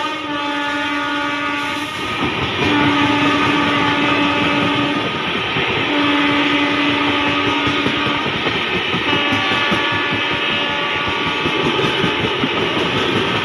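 Indian Railways locomotive horn sounding in long blasts over the rumble and clatter of a passing train: one blast ends about two seconds in, two more of about two seconds each follow, then a fainter, longer one toward the end.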